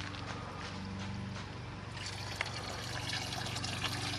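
Small electric solvent pump running with a steady low hum, recirculating cleaning solution through a Sea-Doo engine so that the fluid trickles and pours back into the basin.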